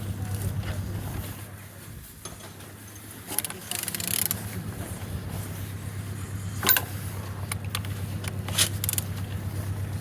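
A used engine being turned over by hand, giving irregular mechanical clicks and scrapes over a steady low hum, with one sharper click near the middle. The engine is being turned to check its compression, which is very strong.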